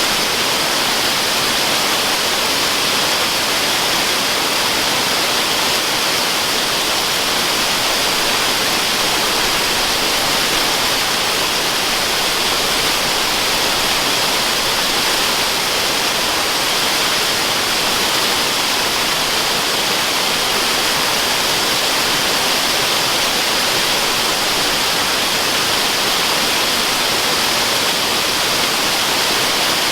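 Waterfall rushing, used as white noise: a loud, unchanging hiss, strongest in the upper range.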